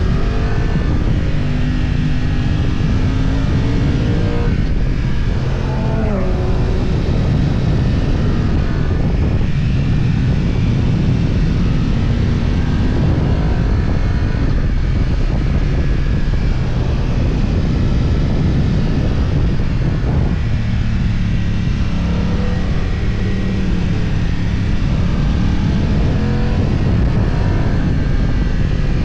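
BMW F900XR's parallel-twin engine running under load, its pitch climbing and dropping several times, as in revving up and changing gear, over a steady rush of noise.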